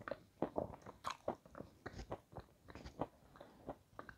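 Close-miked chewing of a crunchy, snow-white chalk-like lump: irregular crisp crunches, several a second.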